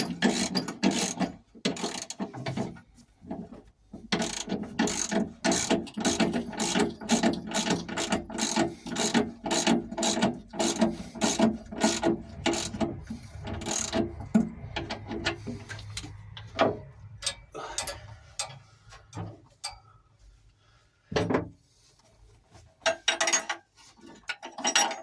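Ratchet socket wrench clicking in quick runs as it is worked back and forth to turn a nut, as when tightening an engine mounting nut. After about fifteen seconds the clicking thins out to a few separate clicks and knocks.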